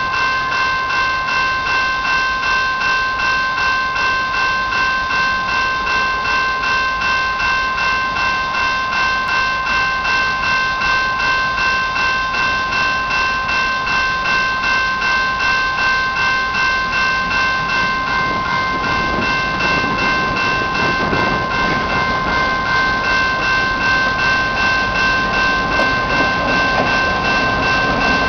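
A bell rings steadily at about two to three strokes a second while CN diesel locomotives move by; their low engine rumble grows louder after about eighteen seconds.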